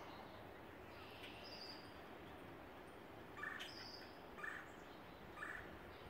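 Faint bird calls outdoors: two thin, high whistles, and three short calls about a second apart in the second half.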